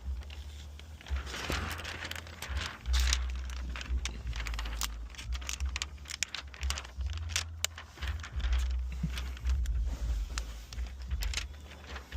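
Sheet of window tint film being handled and moved into place: crinkling and rustling of the plastic with many scattered light clicks and taps, over a steady low rumble.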